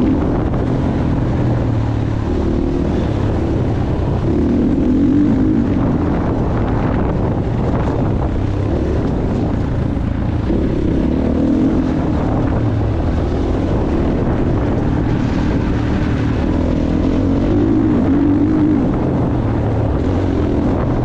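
Motocross bike engine running hard, its pitch rising and falling every few seconds with the throttle and gear changes, with wind buffeting the microphone.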